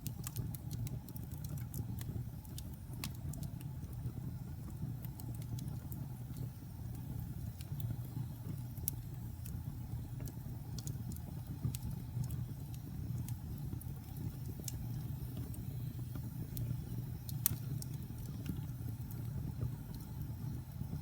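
Wood fire burning in a fireplace: a steady low rumble of flames with irregular sharp crackles and pops scattered through it, one louder pop near the end.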